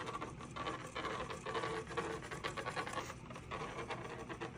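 Paper scratching and rubbing in a continuous, dense rustle of small scrapes.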